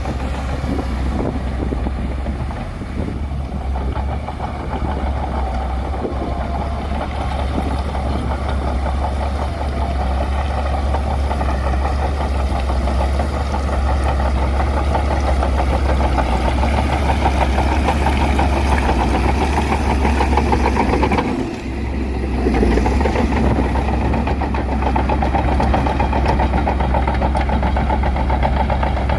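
Bulldozer's diesel engine running steadily, with a brief dip in loudness about three-quarters of the way through.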